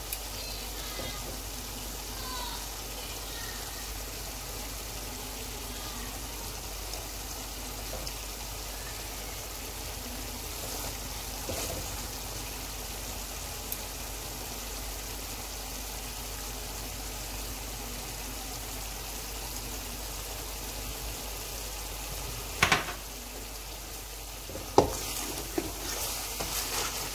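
Chicken, onion masala and tomato halves sizzling gently in oil in a pan, a steady frying hiss. About twenty-three seconds in there is a single loud knock, and near the end a wooden spatula scrapes and clacks against the pan as the mixture is stirred.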